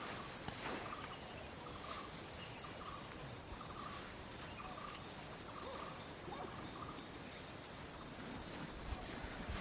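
A faint animal call repeated as short chirps, about one every half-second to second, over a light outdoor hiss.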